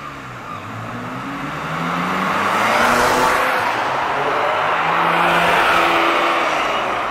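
Ferrari sports car engine accelerating hard past, its pitch climbing through the revs twice, loudest in the middle and again near the end.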